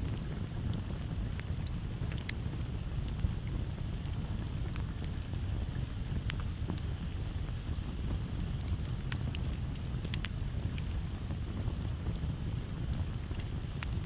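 Campfire crackling, with frequent irregular sharp pops over a steady low rumble, and a continuous high-pitched cricket chorus in the background.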